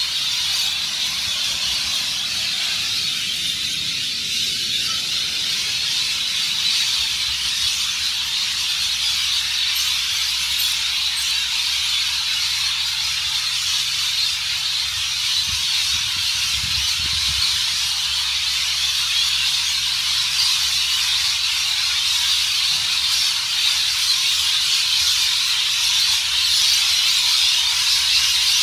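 A large flock of birds roosting in trees, screeching and chattering all at once in a dense, shrill, unbroken chorus.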